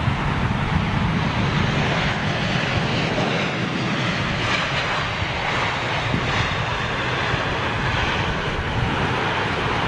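Jet airliner engine noise, a steady rushing sound that holds an even level throughout.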